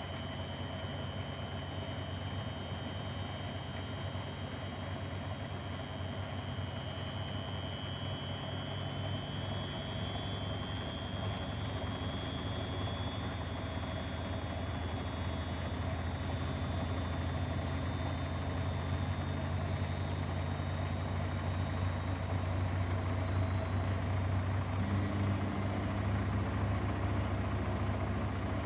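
Grundig front-loading washing machine spinning: a steady low drum hum with a high motor whine that slowly rises in pitch as the drum speeds up, growing gradually louder, with a new lower hum joining near the end.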